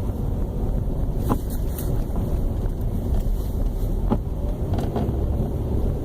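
Car driving: a steady low road and engine rumble, with a few faint knocks.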